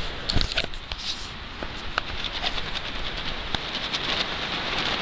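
Tent shaking in strong gusty wind: a steady rush of wind with many sharp, irregular ticks and snaps from the fabric.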